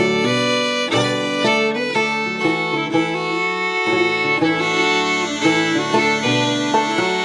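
Fiddle playing a slow waltz melody over plucked gourd banjo accompaniment, an old-time arrangement of a Scottish pibroch tune.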